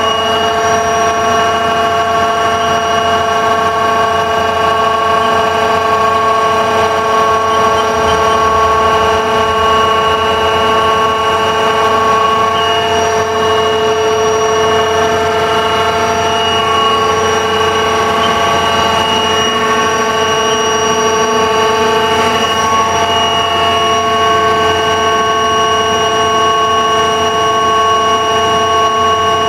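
Haas TL-2 CNC lathe running under power: a steady machine whine of several tones, with no change in speed.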